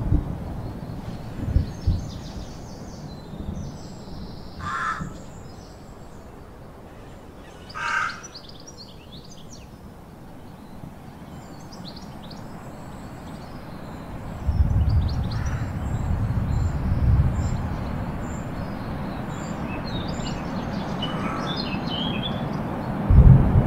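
Birds calling, with two louder single calls about five and eight seconds in and scattered faint high chirps, over an uneven low rumble.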